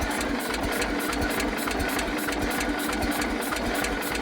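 Old Toro mower's small gasoline engine running at low speed with a steady chugging beat, running but not running well.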